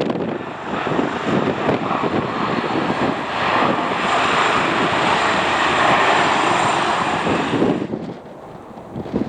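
Airliner's engines running close by, swelling in level with a steady high whine over the noise, then cutting off abruptly about eight seconds in. Wind buffets the microphone at the start.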